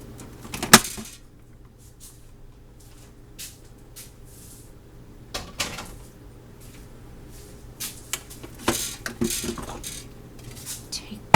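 Kitchenware being handled: a sharp knock about a second in, then scattered clinks and knocks of dishes and utensils, with a low steady hum beneath.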